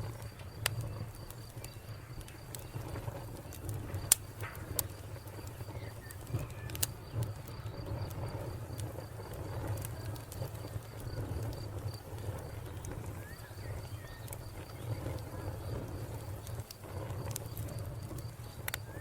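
Wood fire crackling, with scattered sharp pops over a steady low rumble; the loudest pop comes about four seconds in. Behind it a cricket chirps in a rapid, even pulse, and a few faint bird calls come through.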